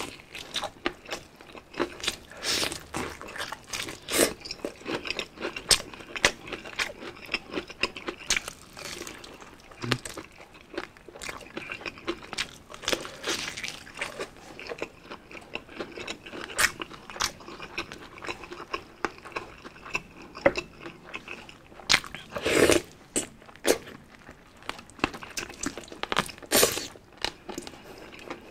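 A person biting and chewing crispy spicy fried chicken dipped in gravy: irregular crunches of the breaded skin, with wet chewing between them.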